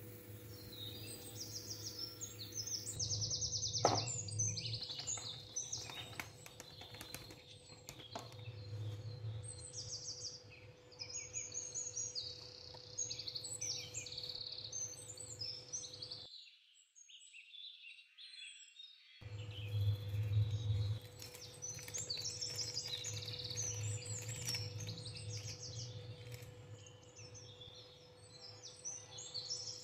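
Small birds chirping busily throughout, many short high calls over a steady low hum.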